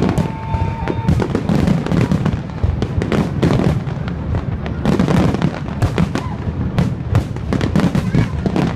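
Aerial fireworks display: a dense, unbroken run of overlapping bangs and crackles, several a second, over a constant low rumble.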